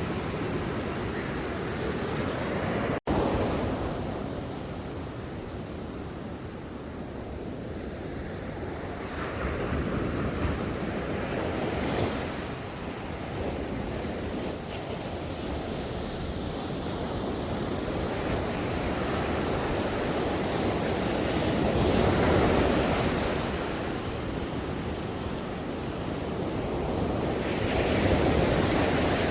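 Ocean waves washing onto a shore, the surf swelling and easing in slow surges, with a brief cutout about three seconds in.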